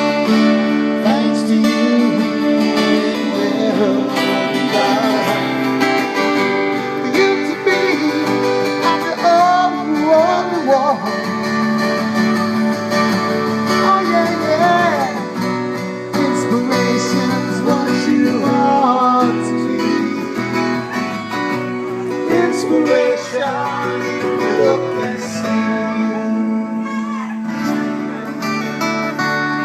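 Live acoustic guitars playing an instrumental break: strummed chords under a lead line with bending, wavering notes.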